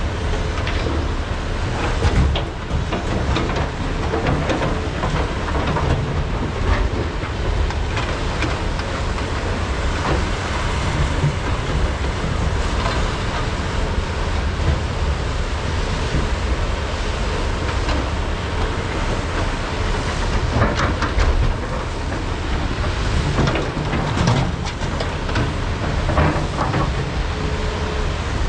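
Large hydraulic mining excavators running under load, a steady heavy diesel rumble with irregular knocks and clatter from digging and truck loading. The knocks bunch up about two seconds in and again past the twenty-second mark.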